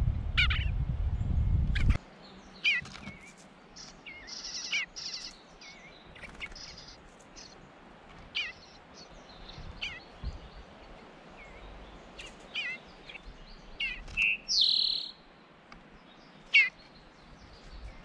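Songbird chirps: short sharp notes every second or two, with two raspier, buzzier calls, one about four seconds in and one near fifteen seconds. A low rumble fills the first two seconds.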